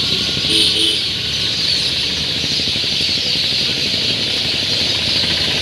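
Birds chirping and calling over a steady hiss.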